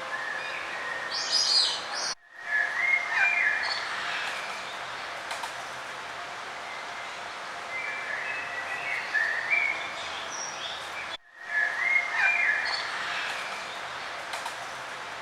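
Several songbirds chirping and warbling over a steady outdoor hiss. The sound cuts out abruptly for a moment twice, about two seconds in and again about nine seconds later, and the same bird phrases come back after each gap, as if the recording is looped.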